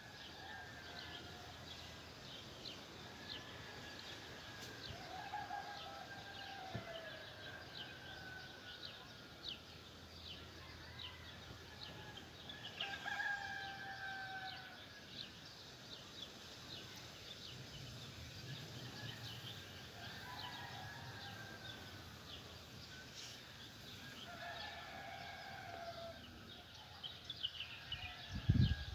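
Rooster crowing several times, each crow a drawn-out call of a second or two, over steady chirping of small songbirds. A low thump near the end is the loudest moment.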